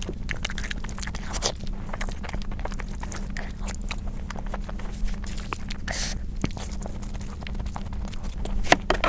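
A person eating close to the microphone: chewing with frequent short wet mouth clicks, over a steady low hum.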